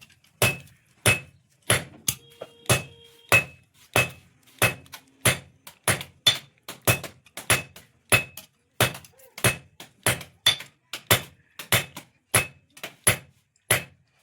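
Blacksmith's hand hammer striking on an anvil in a steady rhythm, about one and a half blows a second, forging a blade; many blows carry a short metallic ring.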